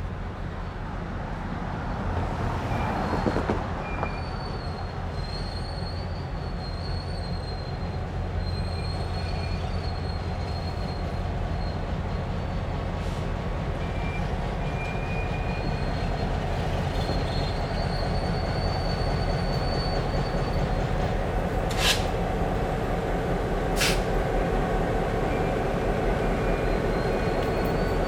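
Train led by an EMD GP9 diesel locomotive running past, its low rumble growing louder. Wheel flanges squeal on and off in high thin tones, and two sharp clicks come near the end.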